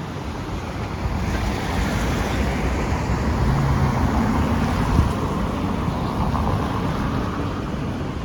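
A car passing on a wet road, its tyre hiss swelling from about a second in, loudest around the middle and fading away, over wind rumbling on the microphone.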